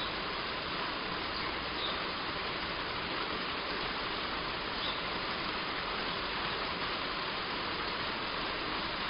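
Heavy rain falling steadily on a roof, an even hiss with no let-up, with a few faint short bird chirps high above it in the first five seconds.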